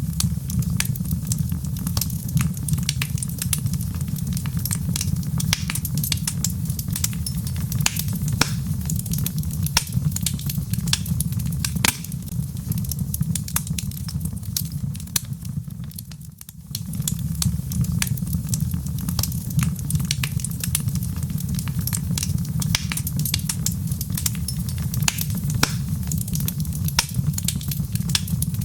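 Wood fire burning in a fireplace: logs crackling with many sharp pops over a steady low rumble, briefly dropping away about two-thirds of the way through.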